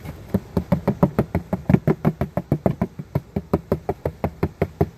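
Rapid, steady knocking on the box holding a honeybee swarm, about six knocks a second, jarring the bees loose to drop them into the new hive.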